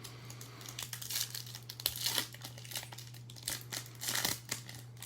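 Foil trading-card pack wrapper crinkling and tearing as it is opened, in a string of short, uneven rustles. A steady low hum runs underneath.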